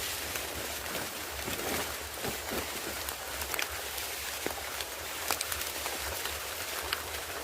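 Steady rain falling, a continuous hiss with many separate drop hits scattered through it.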